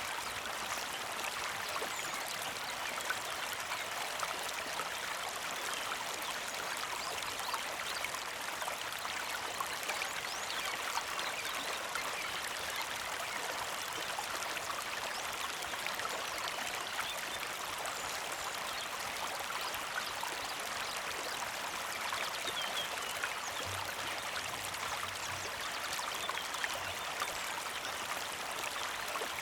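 Small mountain creek flowing and trickling steadily over stones, an even rushing water sound with no pauses.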